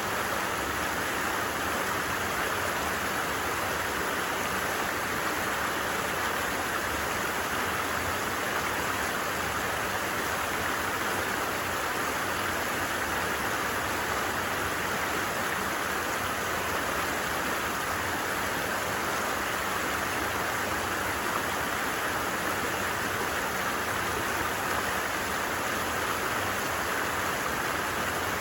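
A stream flowing: a steady, even rush of water that neither rises nor falls.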